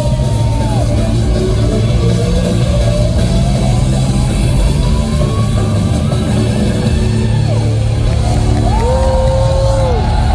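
Live rock band playing loud through a concert sound system, with distorted electric guitar and drums, and long held notes that slide up and down in pitch.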